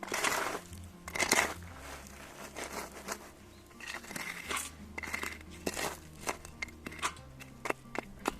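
Handling noises: bursts of crinkling and rustling with scattered sharp clicks and knocks.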